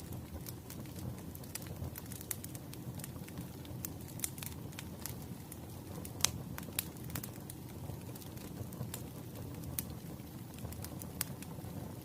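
Burning firewood crackling: irregular sharp pops and snaps over a low steady rumble of flames, with one louder pop about six seconds in.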